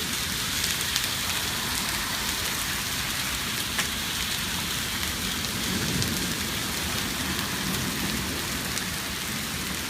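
Hail falling steadily: a dense, even pattering with scattered sharp ticks of single stones striking.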